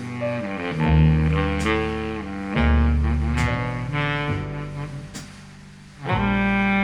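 Recorded music played through a pair of Visaton FR10 4-inch full-range drivers in small bass-reflex cabinets. Sustained instrumental notes ride over deep bass, fade down about two-thirds of the way in, then come back loudly just before the end.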